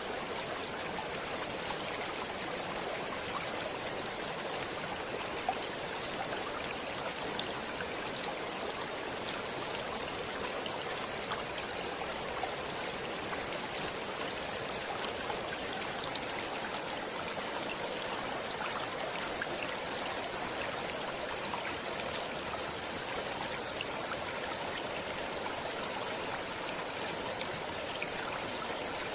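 Stream water flowing steadily: an even rush and trickle that stays the same throughout, with little deep rumble.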